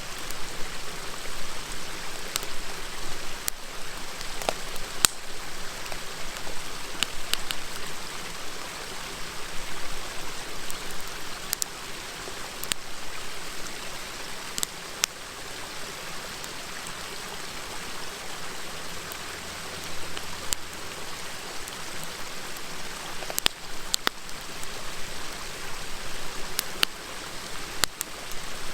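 Steady rush of a river with a wood fire crackling over it, sharp irregular pops every second or two.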